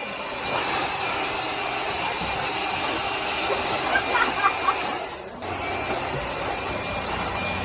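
Compressed-air gun blowing a steady hiss of air to clean off dust, with a brief break about five seconds in.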